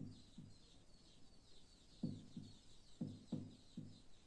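Faint chirping of small birds, with a run of short, low calls repeated about three times a second from about two seconds in.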